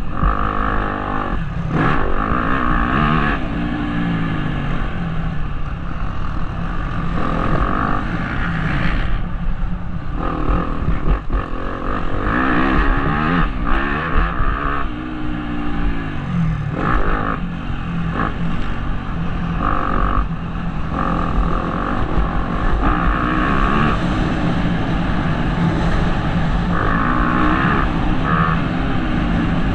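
Motocross bike engine revving hard and backing off again and again, its pitch climbing through each gear and dropping at shifts and on the throttle closing, heard from a helmet-mounted camera.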